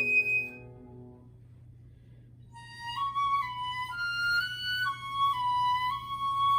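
Flute and piano: a high held flute note and a piano chord die away into a pause of about two seconds. Then the flute plays a short phrase alone, stepping between notes and ending on a long held note.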